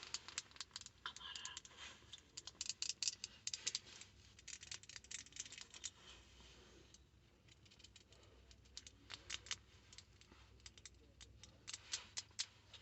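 Quiet, quick, irregular clicking in clusters of keystrokes: typing on a computer keyboard, thinning to scattered clicks partway through.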